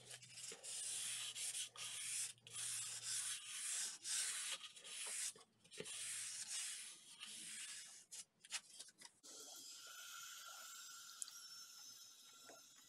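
Repeated hand-rubbing strokes over a surface, as when sanding or rubbing down bicycle parts, with short breaks between them. About nine seconds in, the strokes give way to a steadier, quieter hiss with a faint high hum.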